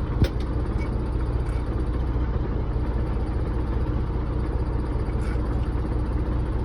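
An engine running steadily with a low hum, and one sharp click or knock about a quarter second in.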